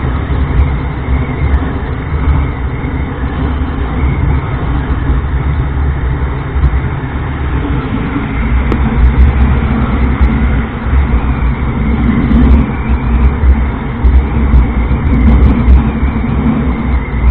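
Honda Livo 110 cc single-cylinder motorcycle riding at road speed, heard from a bike-mounted action camera: engine and road noise under heavy, gusting wind rumble on the microphone.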